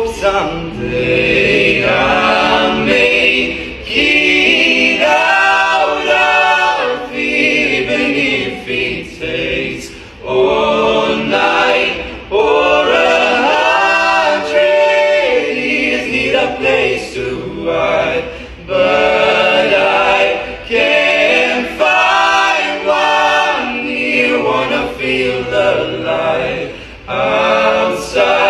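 Choir singing a cappella, several voices together in phrases a few seconds long with short breaths between them.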